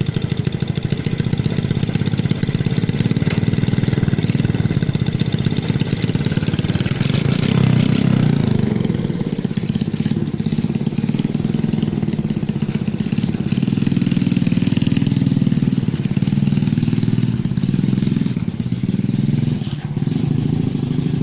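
Yamaha Jupiter Z motorcycle's single-cylinder four-stroke engine running through a modified exhaust, with a rev about seven to eight seconds in and sharp pops from the exhaust around it.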